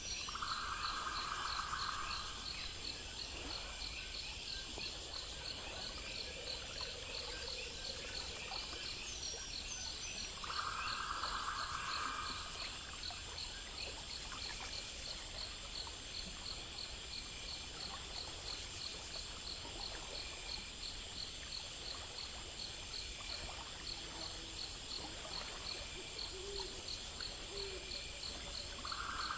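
Night chorus of crickets and other insects: steady high trills and chirps layered together. A lower buzzy call lasting about a second and a half cuts in three times: at the start, about ten seconds in, and at the very end.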